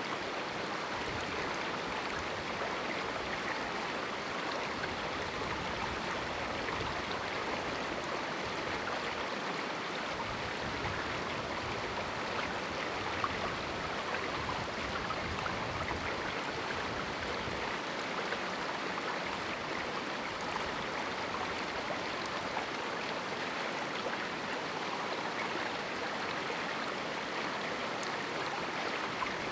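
River running through a small rocky canyon: a steady rush of flowing water with faint little splashes scattered through it.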